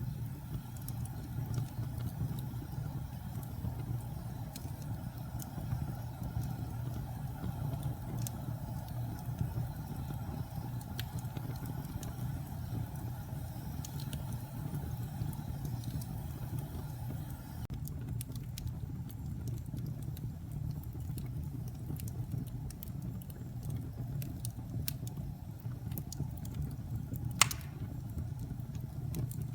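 Wood fire burning in a fireplace: a steady low rumble of flames with scattered small crackles and pops, and one louder pop near the end.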